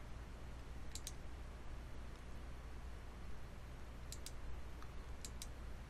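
Computer mouse clicks, a few quick pairs spread out, over a low steady electrical hum.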